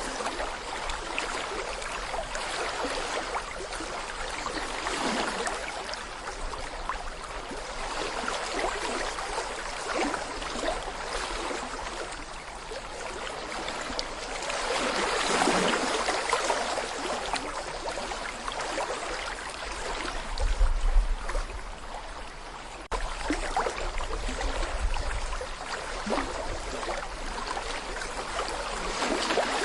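Small brook flowing over stones, babbling and gurgling steadily, with a swell in the rush about halfway through. About two-thirds of the way in, short stretches of low rumbling come in under the water.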